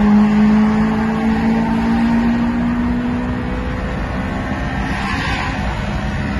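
Toyota Matrix XRS's 1.8-litre 2ZZ-GE four-cylinder engine at full throttle, revving high through one gear from about 6,000 toward 8,000 rpm, its pitch rising slowly, heard inside the cabin with road and wind noise.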